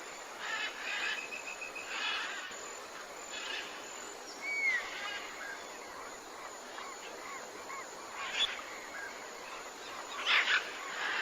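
Tropical forest birds calling and chirping over a steady faint hiss. A quick trill of repeated notes comes about a second in, a single rising whistle near the middle, and a louder cluster of calls near the end.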